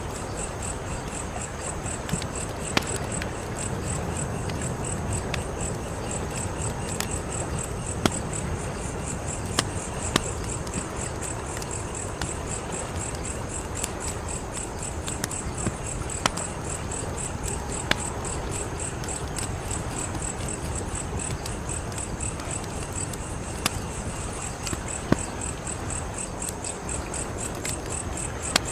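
A wood fire crackling, with sharp pops about a dozen times over a steady low rush. Crickets chirp throughout in a steady, rapid, high-pitched pulse.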